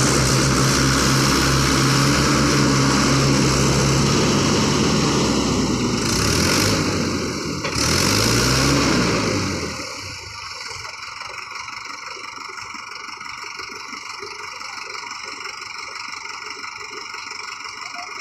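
Tractor's diesel engine running loud, its pitch dipping and climbing back a little past the middle, then dropping to a quieter steady sound from about ten seconds in.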